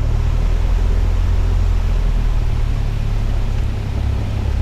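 Cessna 172's engine and propeller running steadily, a loud even rumble heard inside the cabin.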